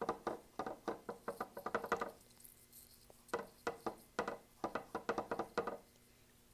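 A paintbrush dabbing paint onto a stretched canvas: quick light taps, about five a second, in two runs of about two seconds each with a short pause between.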